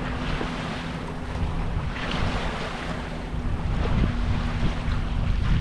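Sailboat under way: water rushing along the hull and wind buffeting the microphone, swelling and easing every couple of seconds, with a faint steady low hum underneath.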